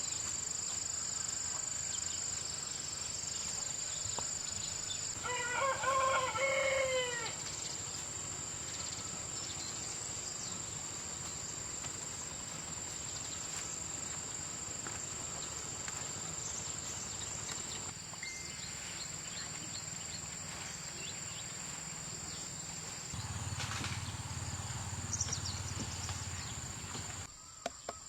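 A rooster crowing once, about five seconds in, over a steady high-pitched hum.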